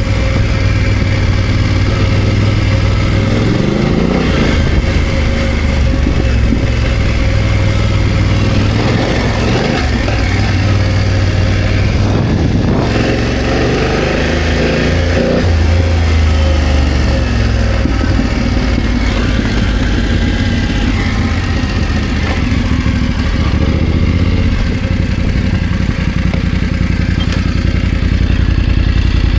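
BMW F900GS parallel-twin engine running at low revs while riding off road, the revs rising and falling repeatedly, with some clatter.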